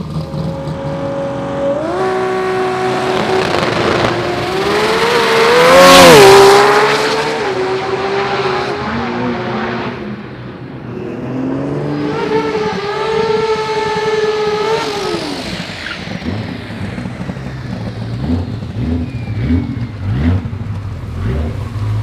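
Drag racing car engines revving hard: one engine is held at high revs and is loudest about six seconds in, its pitch rising then falling. A second engine holds high revs and drops away around fifteen seconds in, followed by a lumpy, uneven low idle with rev blips.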